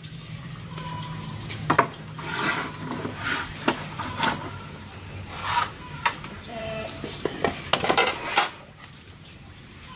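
Irregular clinks and knocks of hard objects being handled, some briefly ringing, over a low hum that fades after about four seconds.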